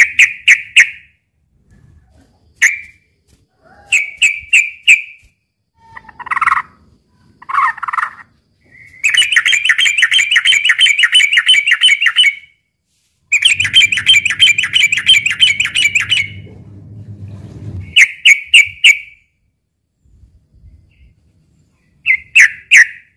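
Yellow-vented bulbul calling in short, bubbly chirping phrases, broken by two long, rapid chattering runs in the middle; the title offers this as a bulbul's fighting song. A low hum sits under the second run.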